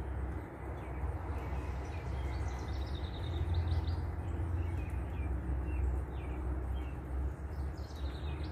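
Short, scattered bird chirps over a steady low outdoor rumble.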